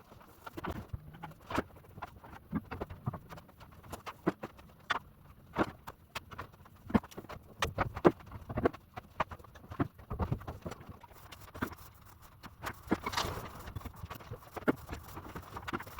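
Irregular sharp knocks and taps of hand tools, about one or two a second, with a short stretch of scraping a little past the middle, from stairwell wall repair work.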